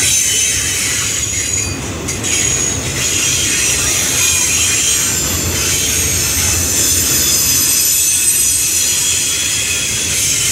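Norfolk Southern double-stack intermodal freight train rolling past, steel wheels rumbling on the rails with a steady high-pitched wheel squeal.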